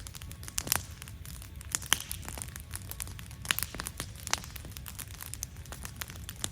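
Wood fire crackling, with irregular sharp pops over a steady low rumble of burning; the loudest pops come about a second, two seconds and three and a half seconds in.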